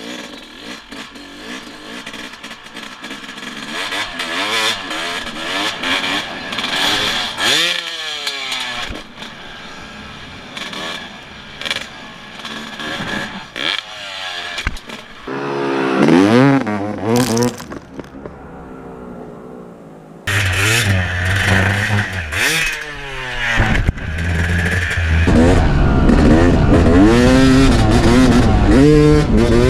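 Two-stroke dirt bike engines revving up and down hard as the bikes accelerate, shift and back off over and over. About two-thirds of the way in the sound jumps suddenly to a louder, closer engine at high revs.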